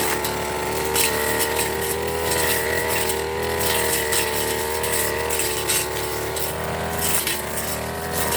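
Firman FGB389FI brush cutter engine running steadily at high speed, its pitch wavering slightly, with scattered sharp ticks over it.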